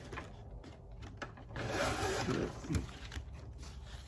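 Manual business card cutter working through card stock: a few light clicks, then a rasping cut lasting about a second, ending in a clunk.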